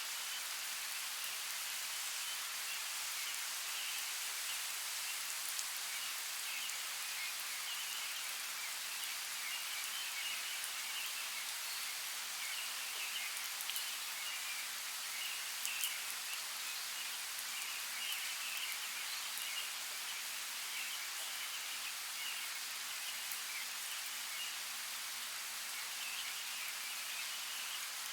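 Steady hiss of water in a forest soundscape, with faint chirps scattered through it and a few light ticks.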